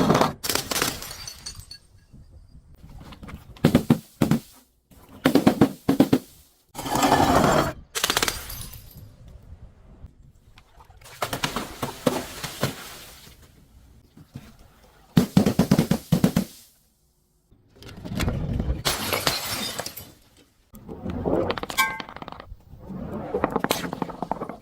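Objects being crushed and broken: about a dozen separate crunching, breaking bursts, each lasting from a moment to a second or two, with short pauses between them.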